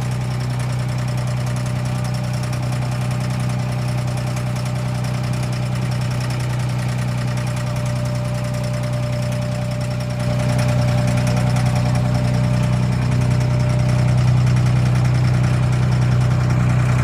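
A boat's engine running steadily with a low, even hum, growing a little louder about ten seconds in.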